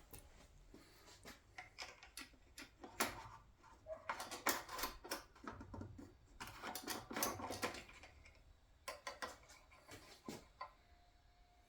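Clicks, taps and scrapes of a lawnmower engine's oil dipstick being handled, pushed into the filler tube and drawn out to check the oil level, coming in clusters with short quiet gaps.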